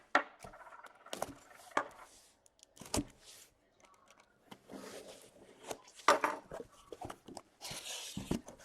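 Cardboard card boxes being handled and set down: scattered knocks, taps and scrapes, with a longer rustle of cardboard or wrapping sliding near the end.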